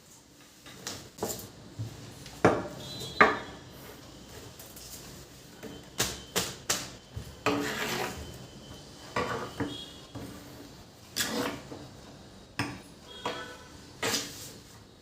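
Dishes and metal utensils being handled: a string of separate knocks and clinks, a few of them ringing briefly.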